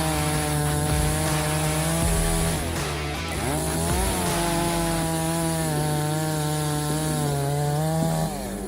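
Large two-stroke gasoline chainsaw, a Holzfforma G660, running at high speed and cutting through wood. Its pitch dips and recovers about three seconds in and drops again near the end.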